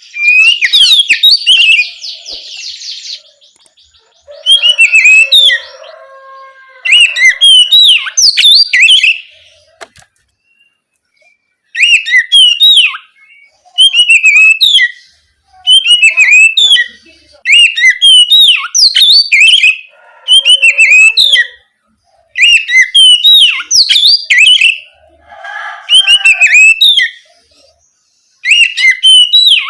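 Oriental magpie-robin singing its loud, full song in about a dozen short phrases of quick gliding whistles and chirps, with brief pauses between them. There is a harsh, buzzy rattle about two seconds in.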